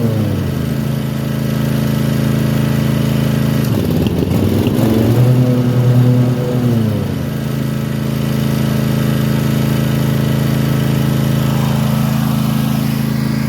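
Kawasaki FR691V V-twin mower engine running warm and misfiring: it sags about a second in, skips and stumbles around four to five seconds in, picks back up, then drops again and runs on steadily at a lower speed. The skipping, cutting out and popping come on only once the engine is warm, which the owner puts down to failing ignition coils.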